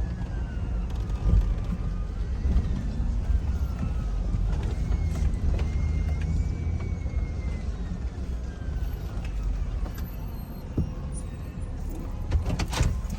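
A truck driving on the road, heard from inside the cab: steady low engine and road rumble, with a faint whine that rises and falls in pitch. A few sharp clicks come near the end.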